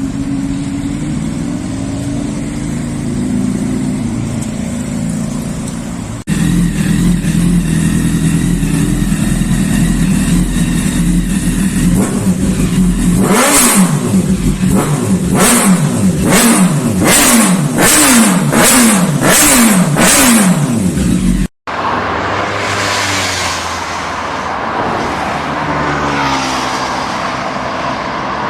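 Sportbike engines in a series of spliced clips. First one bike runs steadily. Then a louder run has about eight quick revs, each pitch sweep rising and falling, roughly once a second. After a sudden cut, another bike pulls hard.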